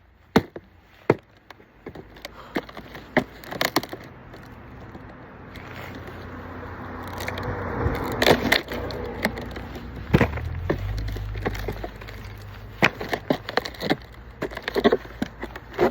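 Firewood being split with an axe: irregular sharp knocks and cracks of wood, about a dozen in all. A rushing noise with a low hum swells through the middle, loudest between about eight and twelve seconds in.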